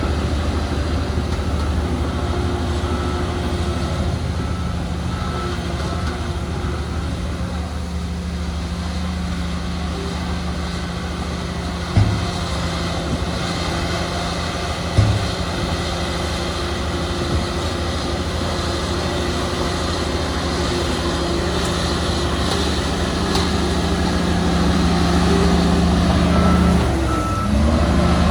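Heavy diesel earthmoving machinery running steadily. A reversing alarm beeps during the first several seconds and again near the end. Two sharp clanks come about three seconds apart mid-way, and the engine note dips briefly near the end.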